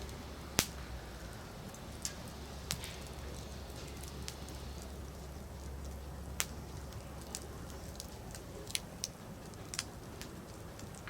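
Firewood burning in an open campfire, crackling with sharp, irregular pops over a low steady hiss, the loudest pop about half a second in.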